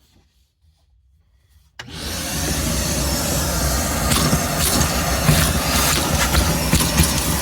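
A 5-horsepower vacuum switching on about two seconds in and then running steadily, with brief crackles over the motor's rush.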